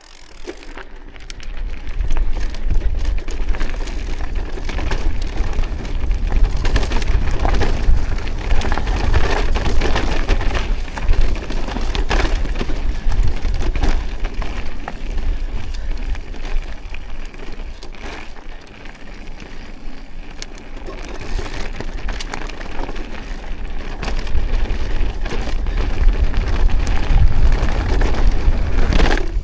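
Mountain bike being ridden along a rough dirt trail: tyres crackling over gravel and stones and the bike rattling, over a deep steady rumble of wind on the microphone. It starts about a second in.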